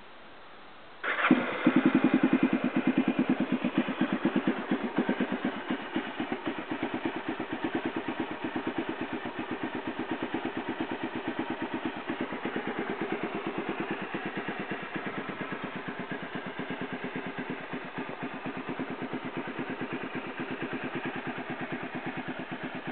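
1993 Honda XR650L's single-cylinder four-stroke engine starts about a second in and settles into a steady, evenly pulsing idle. It exhausts through a Supertrapp IDS muffler with freshly repacked packing, and it has a new spark plug and fresh oil.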